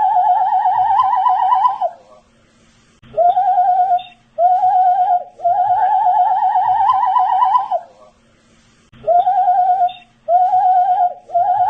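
A man whistling a short looped tune: two short notes, then a longer note that wavers and climbs slightly, followed by a pause of about a second before the phrase repeats.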